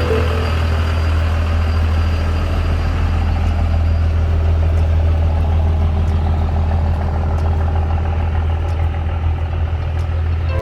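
A car engine idling loudly and steadily, a deep rumble with a rapid even pulse.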